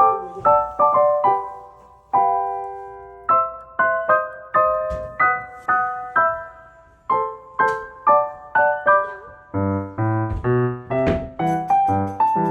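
Background piano music: a melody of single struck notes, with a lower accompaniment joining about ten seconds in.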